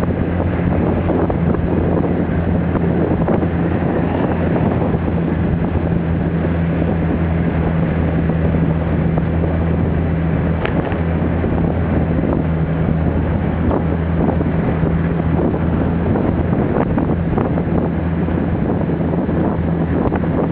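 Small motorbike or scooter engine running at a steady speed while riding, its low hum holding one pitch, with wind rushing over the microphone.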